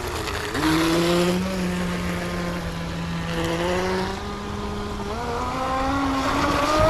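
Brushless electric RC boat motor whining as the boat runs across the water, with a hiss of spray underneath. The pitch holds fairly steady, then climbs over the last couple of seconds as the throttle comes up.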